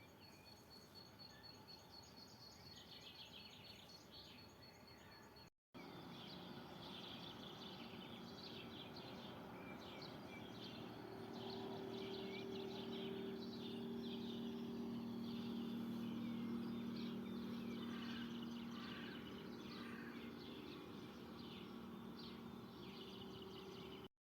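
Faint outdoor birdsong. For the first few seconds a steady high trill runs on, then after a brief break several birds chirp and call. A low steady hum swells up in the middle and fades again.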